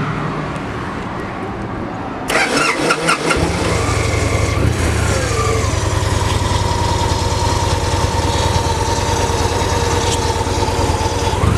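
A 2010 Victory Vision Tour's 106 cubic inch V-twin is started: the starter cranks for about a second, beginning about two seconds in, and the engine catches. Its revs then fall and settle into a steady idle through the stock pipes.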